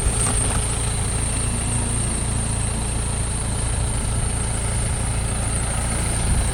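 An engine idling steadily: an even, low rumble that holds unchanged throughout.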